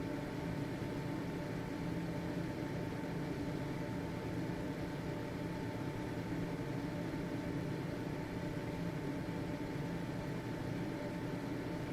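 Household ventilation fan running steadily, a constant whoosh of air with a low motor hum and a faint steady high whine.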